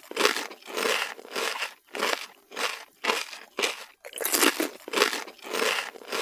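Crunchy potato chips being chewed, a steady run of crisp crunches about two a second.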